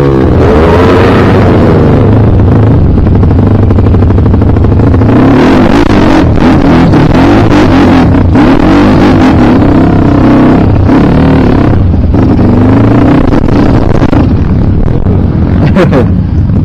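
Dirt bike engine revving hard and unevenly, its pitch rising and falling over and over as the throttle is opened and closed, with a few brief knocks.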